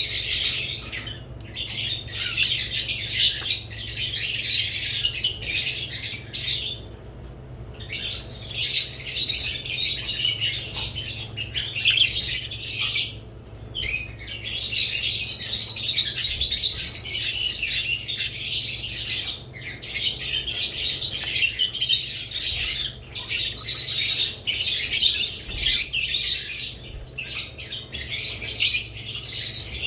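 A flock of budgerigars and lovebirds chirping and chattering continuously in high, rapid calls, with a couple of brief lulls about 7 and 13 seconds in.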